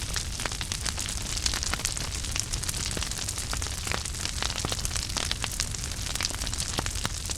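Wood fire burning in a fireplace: a steady low rumble and hiss with frequent irregular crackles and pops.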